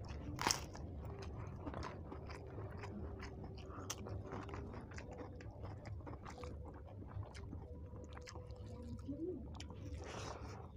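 Close-up eating sounds: a sharp crunch as crisp papad is bitten about half a second in, then steady chewing of papad and rice with many small mouth clicks and crunches.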